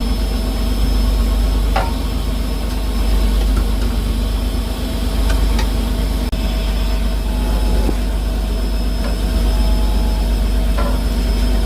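Fishing boat's engine running steadily with a deep, even hum, and a few faint knocks about two, five and eleven seconds in.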